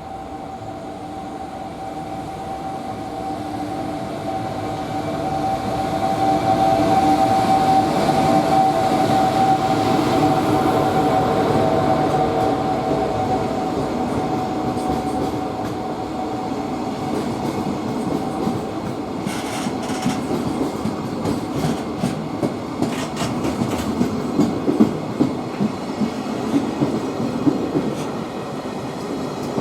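Electric freight train, an EF210 locomotive hauling wagons, passing close by. A steady humming tone builds to its loudest about 7 to 12 seconds in and fades out after about 19 seconds. The wagons' wheels then clack rhythmically over the rail joints, with sharp knocks toward the end.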